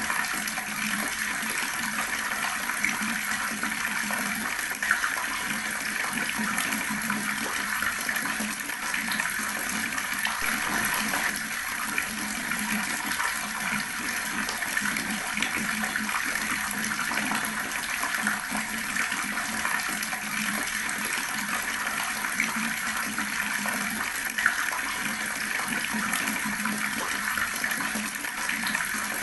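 Water running steadily from a tap, an even splashing rush.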